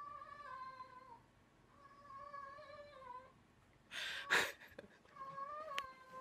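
Domestic cat yowling: three long, wavering calls. A short, loud rustling burst comes about four seconds in.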